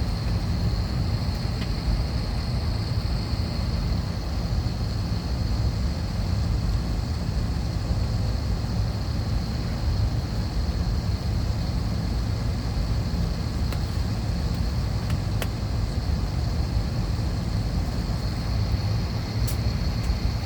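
Steady cabin noise of an Airbus A321-200 parked at the gate: a low rumble of air conditioning and ventilation with a thin, steady high whine above it, and a few faint clicks near the end.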